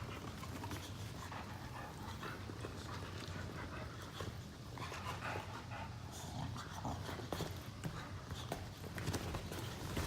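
Boxer dogs panting while play-fighting, with scattered short knocks and rustles from their scuffling.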